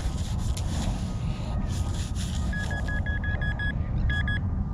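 Metal detector beeping on a target: runs of short, rapid, same-pitched beeps that start about halfway in, pause briefly, and come back twice. A low steady rumble of wind on the microphone and some brief rustling noises run underneath.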